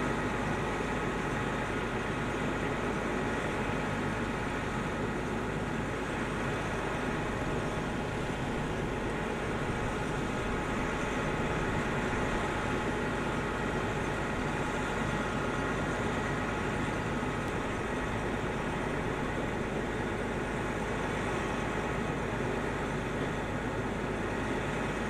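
A vehicle engine running steadily at an even level, with a thin steady whine above the engine noise.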